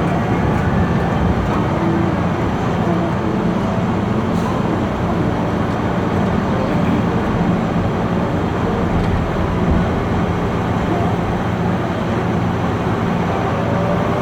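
Heavy diesel engine of a Caterpillar 992G wheel loader running steadily under load.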